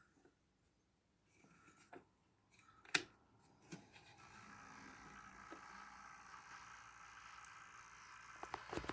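A few faint clicks and one sharper click about three seconds in, then from about four seconds a faint, steady whine of a small electric motor: the 00 gauge Hornby Class 43 HST model power car running on DC power.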